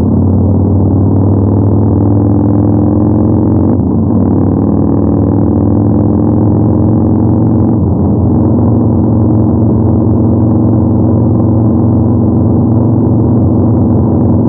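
Yamaha MT-01's 1,670 cc 48-degree V-twin running under load on the move. Its note climbs slowly and breaks twice, about four and eight seconds in, as the rider shifts up, then holds steady.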